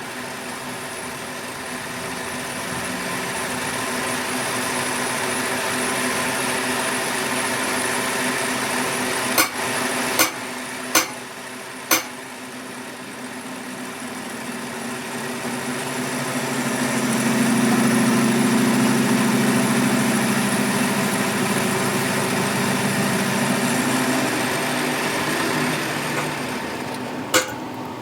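A machine running steadily in a workshop, growing louder for several seconds in the second half, with a few sharp metallic knocks.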